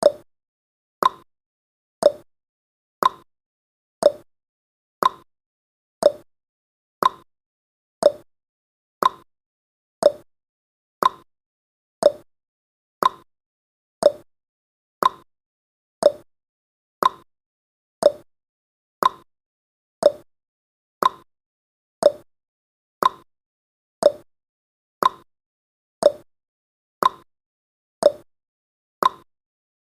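Clock tick-tock sound effect of a countdown timer: one short click every second, alternating between a lower and a higher tick.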